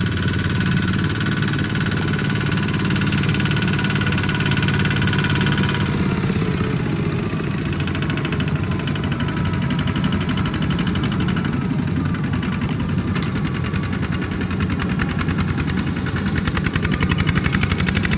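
Kubota mini tractor's engine running steadily, its note shifting about six seconds in.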